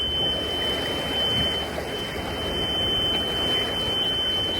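Engine control panel alarm buzzer sounding one steady high-pitched tone with the ignition switched on and the engine not running, over steady wind and water noise.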